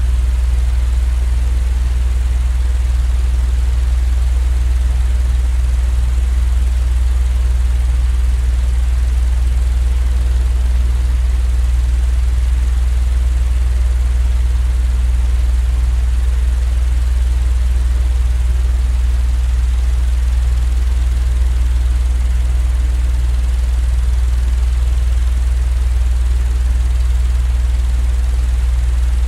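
Steady, unbroken low-pitched rumbling drone of a sleep-aid noise track, loud and unchanging, with only a faint hiss above it.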